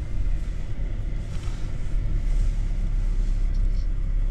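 A car being driven on a mountain road: a steady low rumble of engine and road noise.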